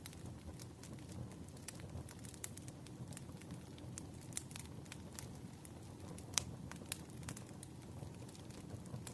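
Wood fire crackling: irregular snaps and pops of burning firewood over a low steady rumble, with one sharper pop a little past six seconds in.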